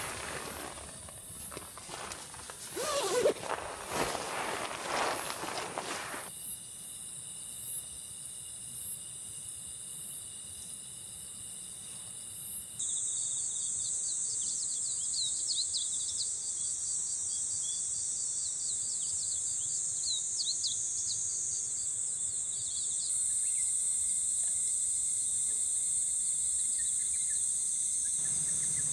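Rustling with a sharp knock about three seconds in, then, from about six seconds, a steady high-pitched insect drone with quick chirps over it. The drone grows louder twice, at abrupt cuts.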